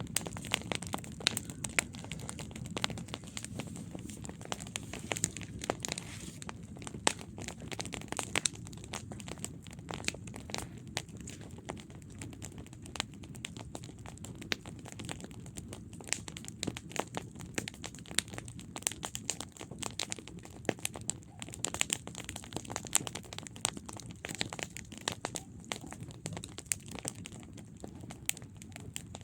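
Wood campfire burning, with a steady low rumble of flames under dense, irregular crackles and pops from the burning wood.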